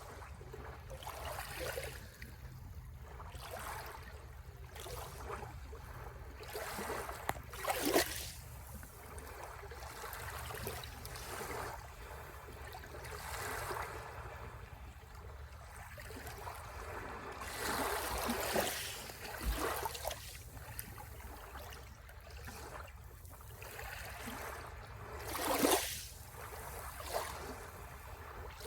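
Sea waves washing onto the shore in a continuous wash, with louder surges of breaking water about 8, 18 and 26 seconds in.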